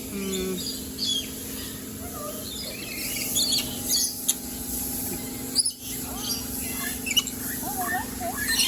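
Aviary birds chirping and squawking, many short high calls overlapping, over a steady low hum.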